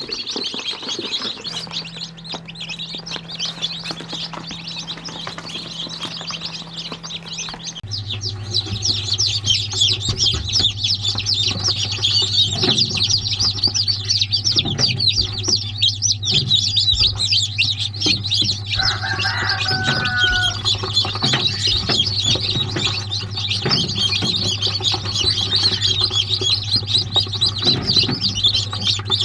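Many small birds chirping continuously in a dense, overlapping chatter, over a steady low electrical or motor hum that drops in pitch and grows louder about a third of the way in. A short pitched call stands out a little past the middle.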